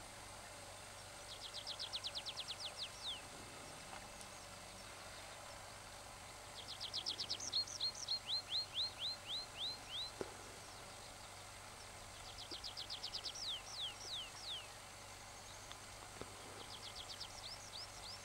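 A songbird singing the same short, high phrase four times, a few seconds apart. Each phrase is a fast run of notes that slows into a few down-slurred notes at the end.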